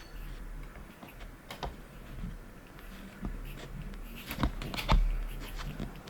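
Clicks and knocks of hard 3D-printed plastic parts being handled and fitted together, a few light clicks early and the loudest knocks a little before five seconds in.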